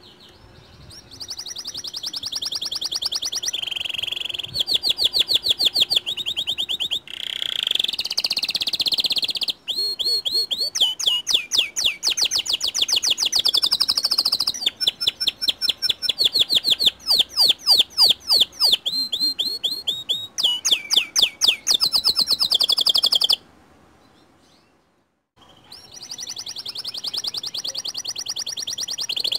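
White domestic canary singing a long, fast song of rapid repeated trills and rolling notes. The song stops abruptly about 23 seconds in and resumes a couple of seconds later.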